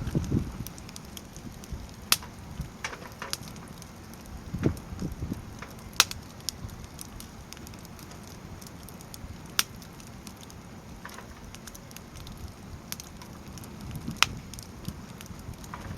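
Firewood burning in a fire pit: a low steady rustle of flames with scattered crackles and a few sharp pops of the wood, the loudest about 2, 6, 10 and 14 seconds in.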